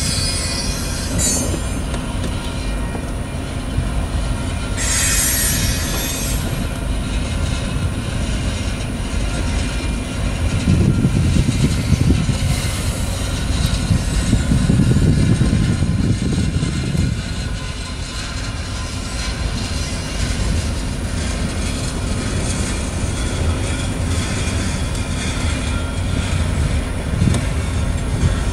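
Freight train of covered hopper cars rolling past, its wheels rumbling steadily on the rails. A brief high squeal comes about five seconds in, and the rumble swells louder in the middle.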